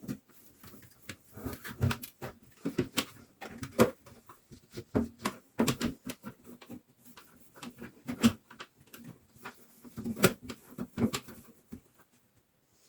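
Irregular knocks, clicks and clatter of items being handled in a refrigerator during cleaning: containers, shelves and drawers taken out and set down, with short pauses between.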